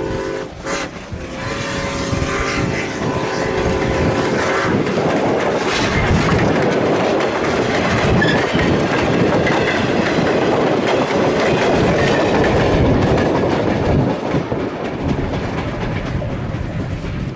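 Train passing at close range, its wheels clattering over the rail joints in a loud, steady rolling noise. The last tones of its whistle fade out in the first few seconds.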